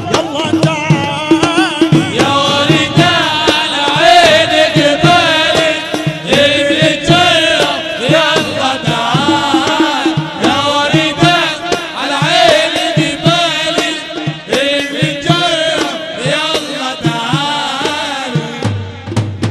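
Arabic wedding nasheed: a munshid's chanted singing with a wavering, ornamented melody over hand-drum percussion and instrumental backing. The music thins out near the end.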